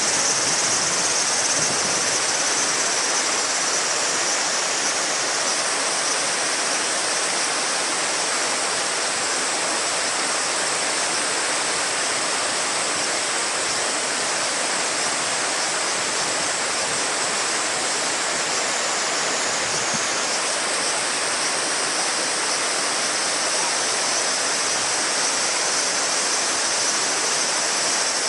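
A shallow river babbling with a steady rush of water, under a chorus of summer cicadas droning high above it; the cicada chorus shifts slightly about five and twenty seconds in.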